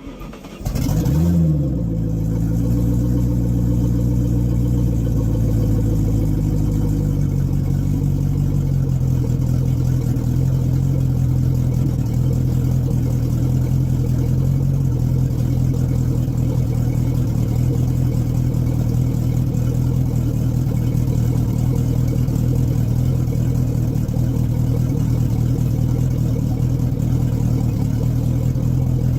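Chris-Craft boat's warm engine cranked and catching about a second in with a brief rev, then dropping back into a steady idle. It is running on a garden-hose attachment while RV antifreeze is fed through it for winterizing.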